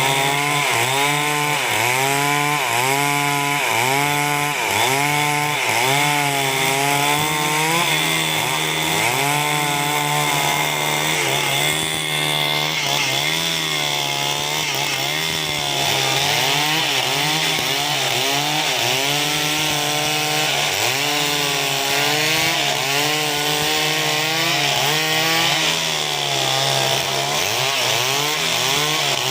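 Two-stroke chainsaw cutting timber into battens, running at high revs, its pitch dipping and recovering over and over, about once a second, as the chain bites into the wood under load.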